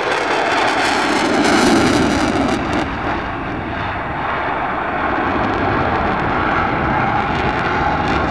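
Fixed-wing aircraft engine noise, loudest about two seconds in and then easing off a little, as of an airplane passing overhead.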